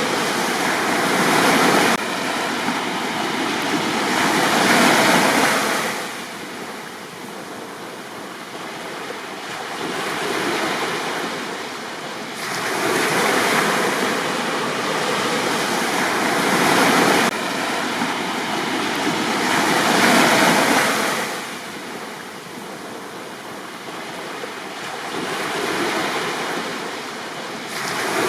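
Waves breaking on a beach, the surf swelling and ebbing in slow surges several seconds apart.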